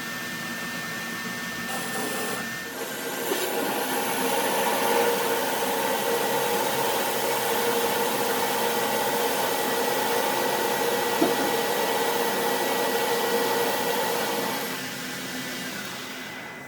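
A motor-driven workshop machine running steadily with a whining hum; it grows louder about three seconds in and dies away near the end.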